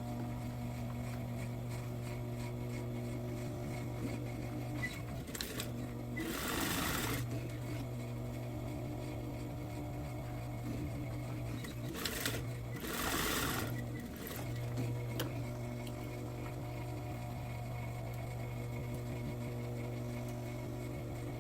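Sewing machine running steadily as it stitches over a trouser waist seam to reinforce it, with two short noisy breaks about six and thirteen seconds in.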